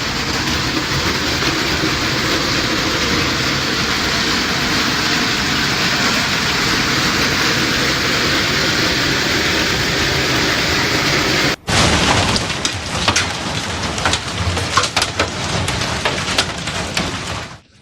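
Hailstorm: a steady dense roar of hail and rain pouring down. After a sudden cut about two-thirds of the way through, many sharp, irregular cracks of hailstones striking hard surfaces.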